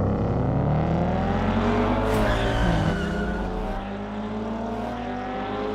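Race-car engine sound effects laid over diecast toy cars: several engines rev up together over the first few seconds, then run steadier and a little quieter. A brief tire squeal comes a little after two seconds in.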